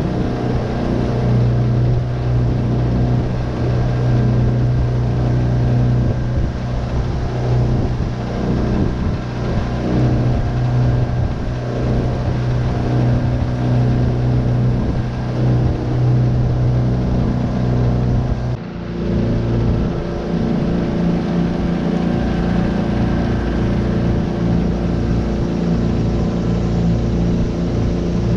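Tohatsu 9.8 hp four-stroke outboard motor running steadily under way. About two-thirds of the way through, the sound dips briefly and the engine note settles into a slightly different pitch.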